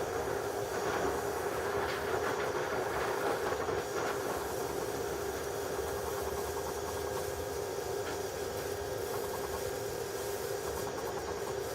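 HHO oxyhydrogen welding station running: a steady hiss over a constant hum.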